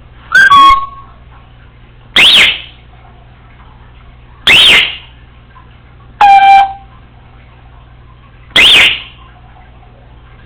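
Congo African grey parrot giving five loud whistled calls about two seconds apart. Three are quick rising-and-falling whistles; the first and fourth step down through held tones.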